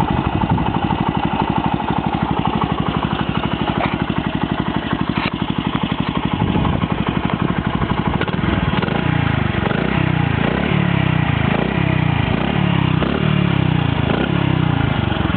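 Honda CD50's small single-cylinder four-stroke engine running through a Cabton-style muffler: a steady, even idle, then in the second half a quick series of repeated throttle blips, each one revving up and falling back.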